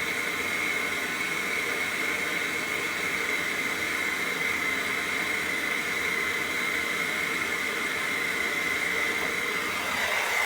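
Brazing torch flame hissing steadily, with a high whistle-like tone in it, as it heats a refrigerator's Schrader charging-valve joint to unsolder it from the refrigerant line.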